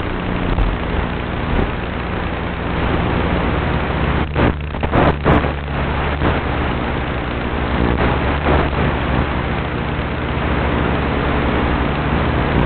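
Flex Innovations RV8 RC airplane's motor and propeller running with a steady drone under heavy wind rush. About four to five seconds in the drone briefly drops out several times.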